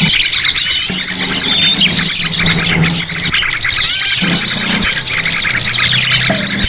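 A dense chorus of many small birds chirping and calling at once, short overlapping rising and falling notes with no pause, over a faint low hum.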